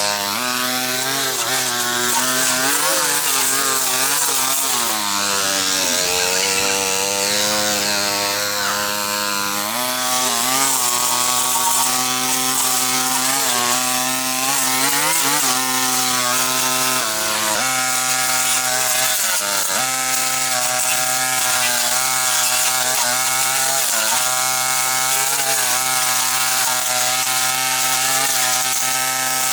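Small-engine power cutting tool running without a break, its pitch dipping and recovering again and again.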